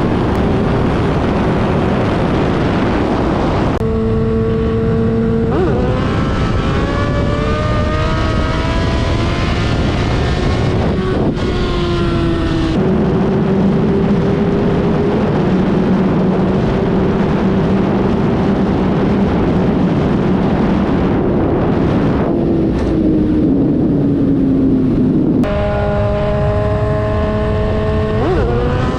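2007 Suzuki GSX-R1000's inline-four engine through a Yoshimura exhaust with the dB killer removed, ridden on the highway: it pulls up in rising pitch, changes gear, holds a steady cruise, then starts climbing again near the end, over a constant rush of noise.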